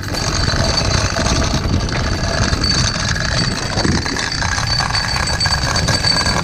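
A motor running steadily, with a thin high whine held throughout.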